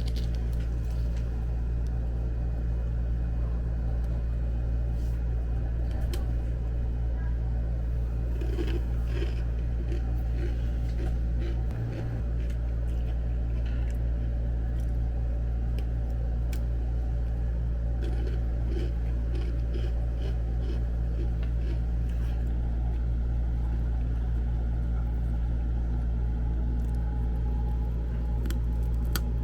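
Steady low mechanical hum with light clicks and handling noises scattered over it.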